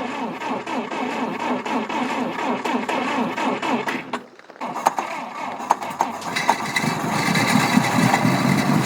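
A 1954 GAZ M20 Pobeda's four-cylinder side-valve engine is cranked on its starter in a start attempt after twenty years laid up. The cranking breaks off briefly about four seconds in, then starts again, and the engine begins firing toward the end.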